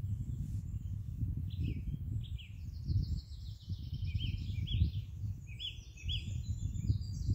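Small birds singing from about a second in, with quick chirps and a rapid run of repeated high notes, over a low, uneven rumble.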